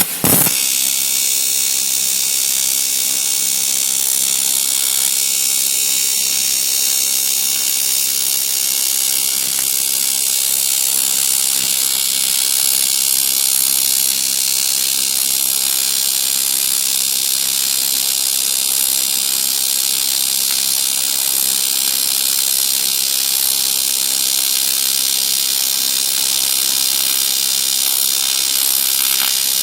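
AC TIG welding arc on an aluminium crankcase patch, a steady buzzing hiss that starts abruptly just after the beginning and holds evenly throughout.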